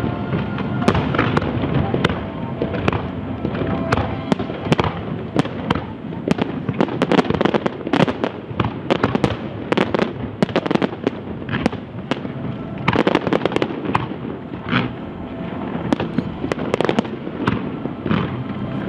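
Professional aerial fireworks display: a rapid, continuous barrage of bangs and cracks, several per second.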